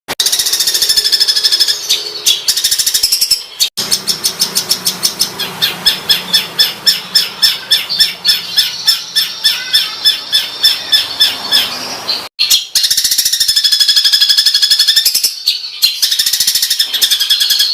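Songbirds giving harsh, rapid-fire 'tembakan' call phrases, high-pitched and loud, spliced from separate recordings with abrupt cuts about 4 and 12 seconds in. The middle stretch is a run of repeated sharp notes about three a second, and the last part is a fast buzzing trill.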